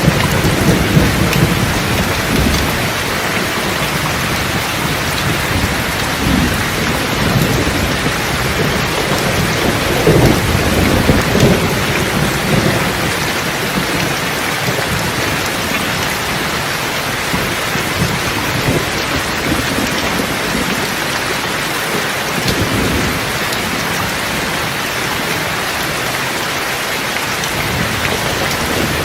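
Steady rain falling, with thunder rumbling low at intervals: loudest near the start and again around ten seconds in, fainter in between.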